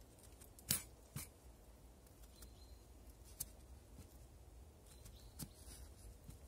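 A few faint, sharp clicks and taps over a quiet background: a knife slicing slits into potatoes threaded on a metal skewer, the blade now and then striking the skewer.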